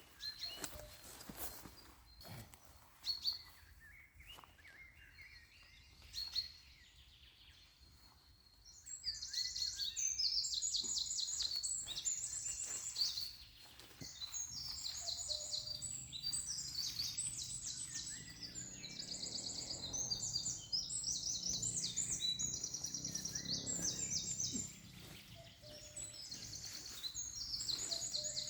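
Forest songbirds singing: fast trills and repeated high chirps that start about a third of the way in and carry on, one phrase after another. A few scattered sharp clicks and knocks come before, in the first few seconds.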